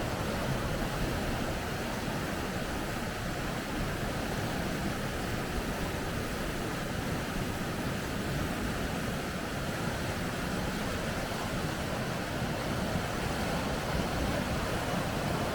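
River rapids rushing: a steady, unbroken noise of fast-flowing water.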